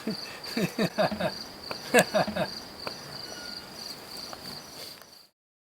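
Steady high-pitched insect trill, like crickets chirping, that cuts off suddenly near the end, with a few short voice sounds over it in the first half.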